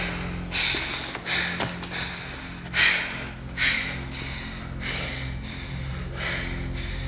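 Heavy, ragged breathing: loud gasping breaths about once a second over a low steady drone.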